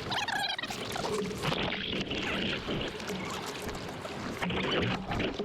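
Choppy sea water splashing and sloshing close to the microphone, an uneven rushing that surges and eases.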